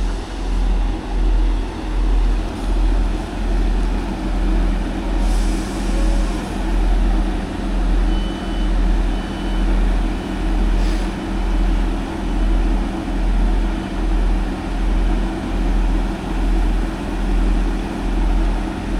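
Class 158 diesel multiple unit's underfloor diesel engine idling, a steady low throb pulsing about once a second. Two short high beeps come about eight seconds in.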